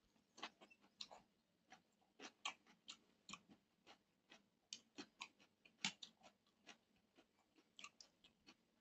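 Close-up eating sounds of a man chewing a mouthful of rice and duck curry eaten by hand: soft, wet chewing and lip smacks in an irregular run of clicks, a few each second.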